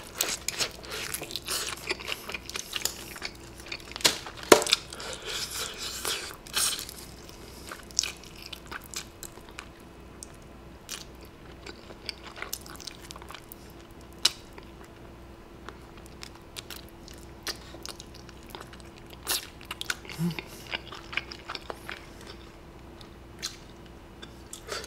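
Close-up eating of crispy fried chicken: crunchy biting and chewing of the fried skin, dense for the first several seconds. It thins out to scattered small clicks and mouth sounds as meat is picked off the bone. A faint steady hum lies underneath.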